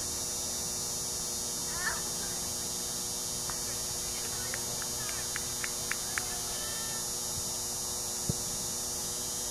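Steady hiss and hum with a faint distant call about two seconds in, a short run of light ticks near the middle and a single soft thump near the end.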